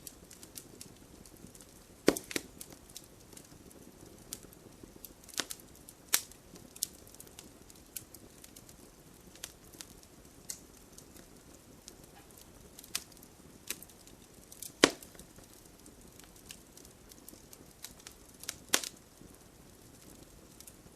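Fire burning in a fireplace, crackling, with sharp pops at irregular intervals. The loudest come about two, five, six, fifteen and nineteen seconds in, over a faint steady hiss.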